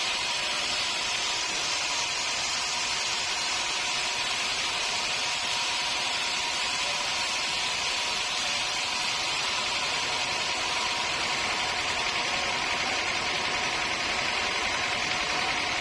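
Sawmill machinery running steadily: a constant hissing machine noise with a faint steady hum under it.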